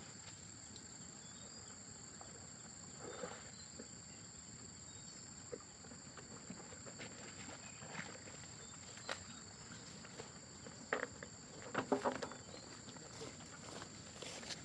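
Insects droning steadily in an even high tone, with scattered knocks and rustles; the loudest are a few sharp ones about eleven to twelve seconds in.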